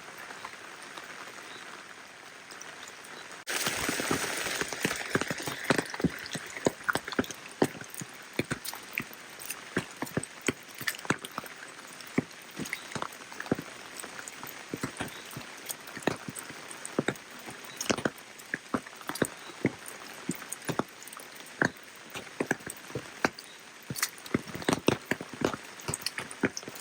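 Steady rain falling. About three and a half seconds in, the hiss suddenly gets louder and is joined by many sharp, irregular drips and drop impacts close by.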